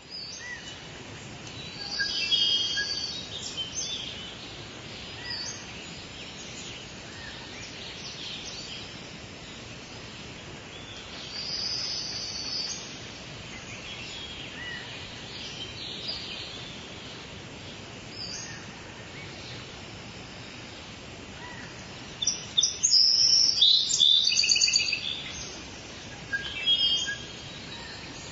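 Steady soft rain falling, with small birds chirping over it in short bursts a few times; the loudest run of calls comes near the end.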